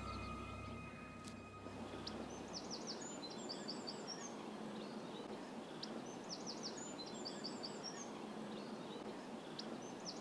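A small songbird sings short, high, twittering phrases three times, a few seconds apart, over a steady hiss of outdoor background noise.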